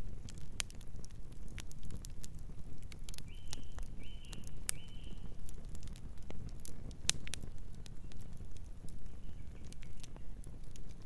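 Wood fire crackling: sharp pops scattered throughout over a low, steady rumble of burning flames. A little past three seconds in, a distant bird gives three short chirps in quick succession, with fainter calls later.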